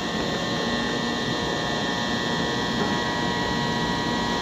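Steady high-pitched electronic buzzing tone over a rushing mechanical noise at a Shinkansen platform as a Nozomi train departs, holding level throughout.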